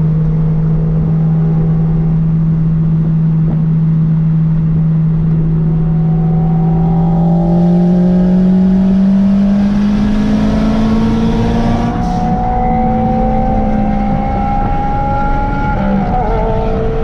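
A Honda four-cylinder car engine running under steady throttle. Its pitch climbs slowly for several seconds, then holds steady, with a brief wobble near the end.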